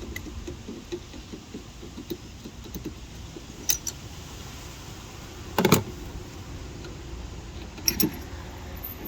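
Metal hand tools and parts clinking and knocking during car suspension work: a light clatter with three sharper metallic knocks, the loudest about halfway through.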